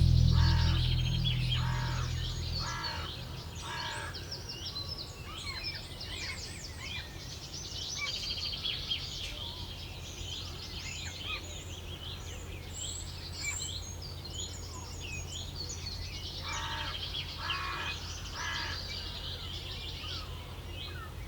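Outdoor bird ambience: many small birds chirping, with a larger bird giving two runs of repeated calls, one at the start and one from about 16 to 19 seconds. A steady low hum runs underneath, and background music fades out over the first few seconds.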